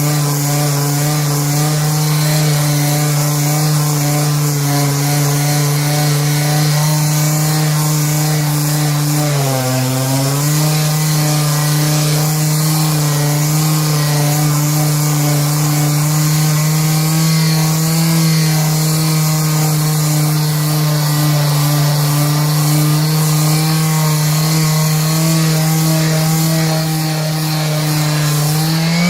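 Electric palm sander running steadily, its motor humming as it sands wood with regular 100-grit sandpaper glued onto the pad. The hum dips in pitch briefly about ten seconds in and again near the end.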